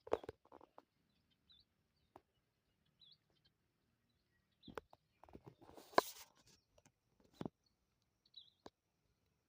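Faint outdoor ambience: a small bird gives short, high chirps every couple of seconds. Scattered sharp clicks sound through it, and a brief rustle about six seconds in is the loudest sound.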